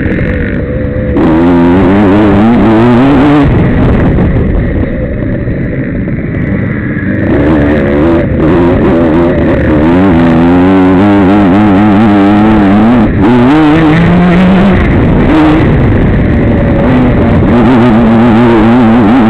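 Dirt bike engine revving hard, its pitch rising and falling with the throttle, with electric-guitar music mixed in.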